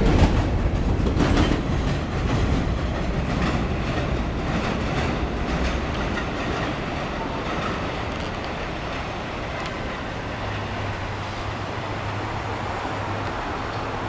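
R143 subway train pulling away along the elevated BMT Jamaica Line, its wheels clacking over rail joints while the rumble fades as it recedes.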